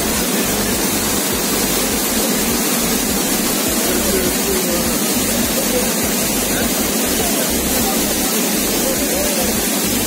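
Steady, loud rush of a large river in high flow pouring over rocky falls in white torrents.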